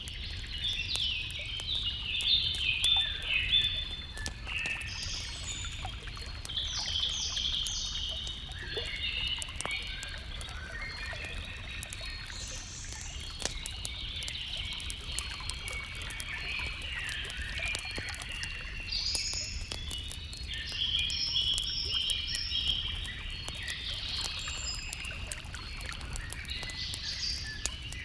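Several songbirds chirping and singing in overlapping phrases over a steady low rumble, with fine crackling clicks from a campfire throughout.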